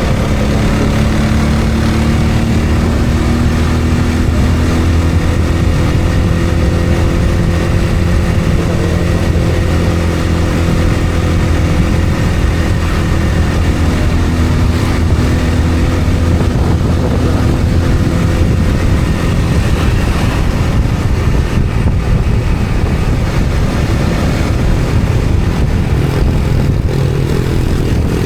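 A motor vehicle engine running at a steady speed under a constant rumble of road and wind noise.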